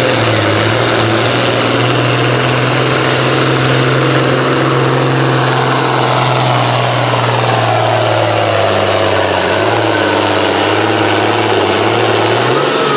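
Farm stock pulling tractor's diesel engine running flat out under load as it drags the weight sled down the track, steady and loud, with a high whistle over it. Near the end the engine note and the whistle drop away together as the pull ends.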